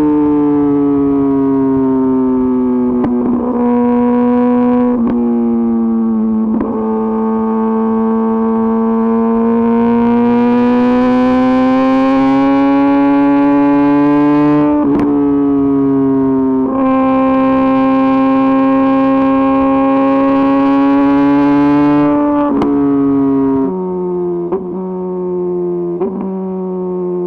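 Kawasaki ZX-10RR inline-four engine under way through an Arrow Pro-Race exhaust. Its note rises and falls slowly, with sudden steps in pitch several times as gears change.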